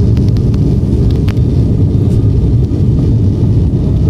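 Steady, loud aeroplane cabin noise: a continuous low rumble of engines and airflow heard from inside the passenger cabin.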